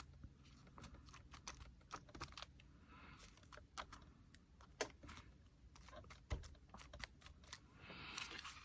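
Faint, scattered light clicks and taps with a few soft rustles, from small paper pieces and craft supplies being handled at a work table.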